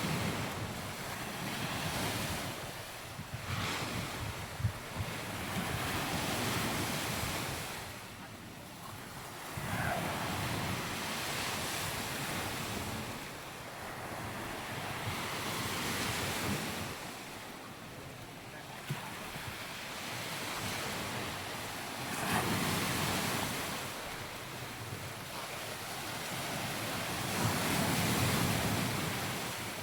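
Sea waves washing onto a sandy beach, swelling and fading every few seconds, with wind buffeting the microphone.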